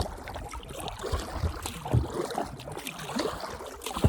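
Kayak being paddled on a lake: water splashing and dripping with each stroke, with a low thump about every two seconds.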